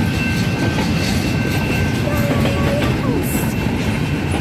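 Union Pacific double-stack container train rolling past at close range: a steady rumble of steel wheels on the rails as the loaded well cars go by.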